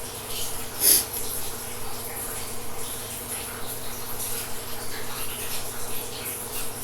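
Steady microphone hiss and low electrical hum, with scattered faint ticks and one sharper click about a second in.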